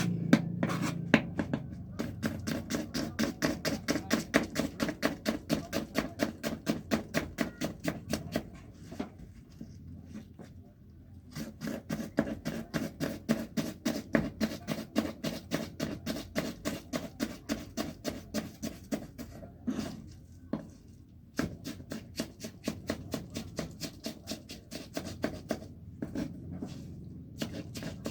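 A knife chopping food on a cutting board in quick, even strokes, about four a second, stopping briefly three times.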